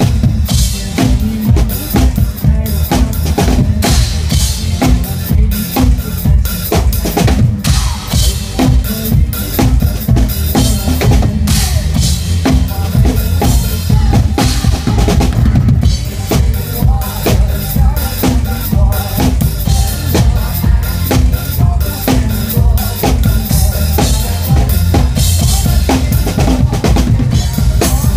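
Drum kit played live at a steady driving beat, with bass drum and snare strokes over backing pop music.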